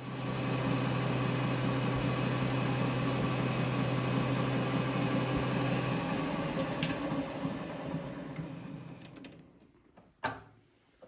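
Metal lathe switched on and running with a steady motor hum, then switched off about six seconds in and winding down to a stop over a few seconds. A single knock follows about ten seconds in.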